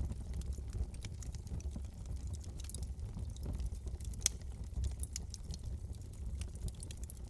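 Wood fire burning in a fireplace: a steady low rumble of flames under irregular crackles and small pops, one sharper pop about four seconds in.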